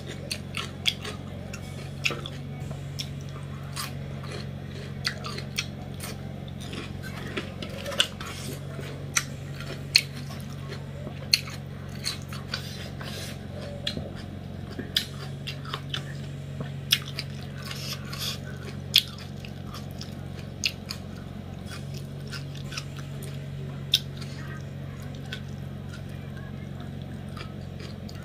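Close-up mouth sounds of someone chewing a mouthful of rice and fish curry: wet smacks and clicks of the lips and tongue at irregular moments, a few every second or two, over a steady low hum.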